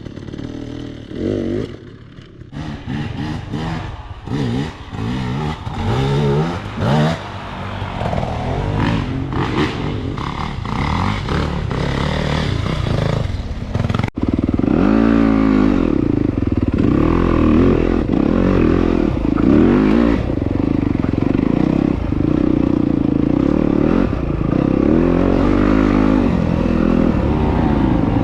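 Dirt bike engines revving unevenly, pitch rising and falling with the throttle. After a sudden break about fourteen seconds in, a dirt bike runs louder and steadier under way, its pitch wavering as it is ridden.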